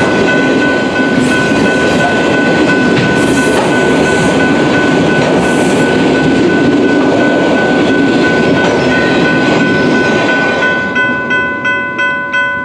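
Freight autorack cars rolling past at speed, with loud rumbling and rattling wheel-on-rail noise, while a grade-crossing bell rings steadily over it. Near the end the train noise falls away and the crossing bell's dings stand out alone, about three a second.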